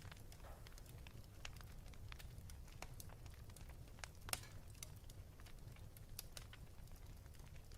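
Fire crackling in a fireplace: irregular small pops and snaps over a low, steady rumble, with one sharper pop about four seconds in.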